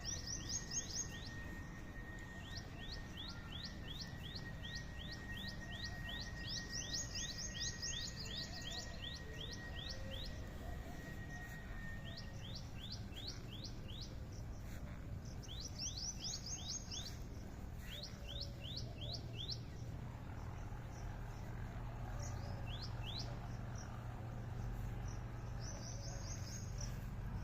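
Birds chirping in fast runs of short, high notes, several runs a few seconds apart. A thin steady high tone sounds through the first half.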